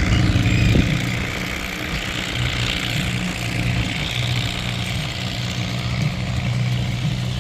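Antique farm tractor engine running at a steady idle, a low even hum.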